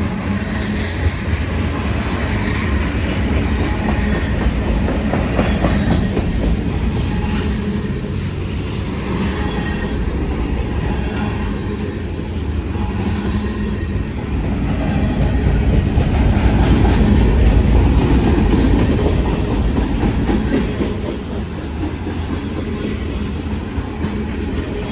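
Train rolling past, steel wheels clattering over the rail joints in a steady rumble, with a brief high wheel squeal about six seconds in and the rumble swelling a little past the middle.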